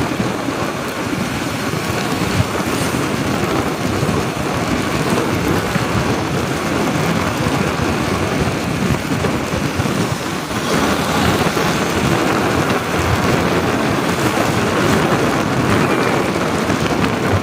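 Wind buffeting the camera microphone on a moving motorcycle, a loud, uneven rumble mixed with road and engine noise.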